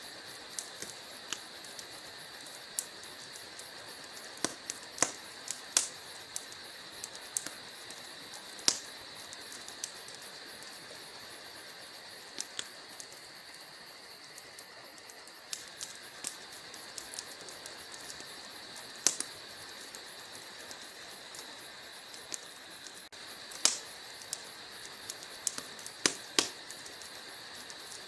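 Wood logs burning in a fireplace: a steady hiss with sharp crackles and pops at irregular intervals, several loud pops coming close together near the end.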